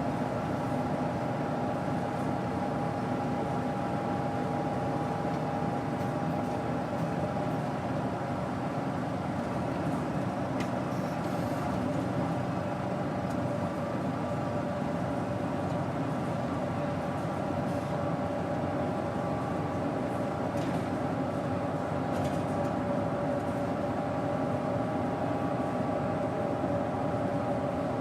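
Daewoo BS110CN bus's Doosan GE12Ti natural-gas (CNG) engine, 290 PS, running steadily, with a few held tones over an even rumble.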